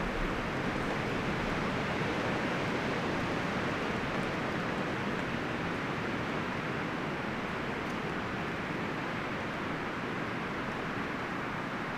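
Wind blowing steadily through forest trees, the leaves and branches rustling in a continuous rush that swells slightly and eases.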